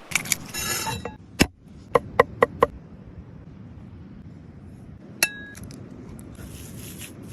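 Kitchenware clinking and knocking. A ringing clink opens it, then comes a quick run of four sharp knocks about two seconds in, and a single ringing clink a little after five seconds.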